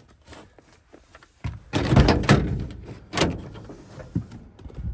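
Vehicle door being worked: a loud rattling clatter about a second and a half in, then a single heavy thunk a little after three seconds, followed by a few lighter knocks.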